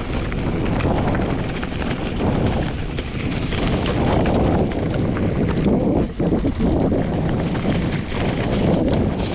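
Wind buffeting a GoPro's microphone in uneven gusts, a dense rumble with scattered small clicks; it drops off briefly about six seconds in.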